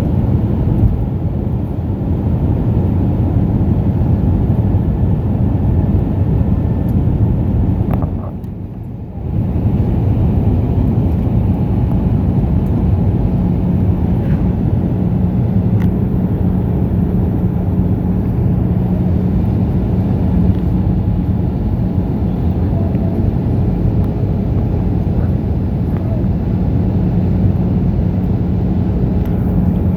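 Steady cabin noise inside an Airbus A319 airliner, a loud low rumble of engines and airflow. It dips briefly about eight seconds in, and a steady low hum joins it about twelve seconds in.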